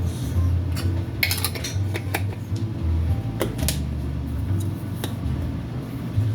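Kitchen utensils and dishes clinking and tapping, with about eight scattered sharp clinks.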